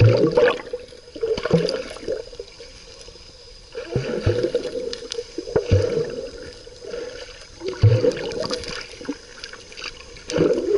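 Sea water splashing and sloshing in repeated surges, each with a low thud, roughly every two seconds.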